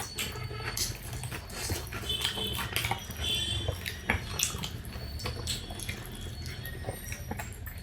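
Eating sounds: metal spoons clinking and scraping against plates in short irregular clicks.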